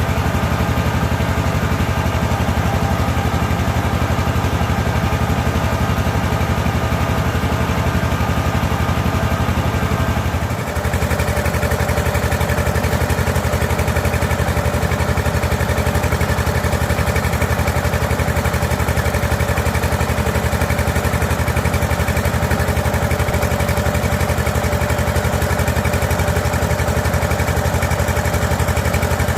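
Diesel engine of a mobile rice milling machine running steadily and loud, driving the mill. About eleven seconds in the sound dips for a moment, then carries on with more hiss in it.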